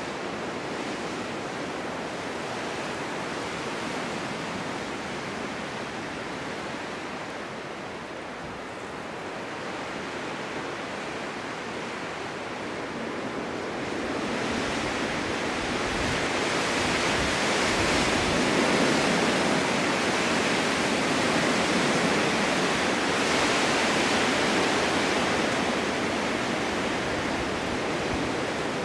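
Winter storm wind blowing steadily, swelling into stronger, hissier gusts about halfway through and easing a little near the end.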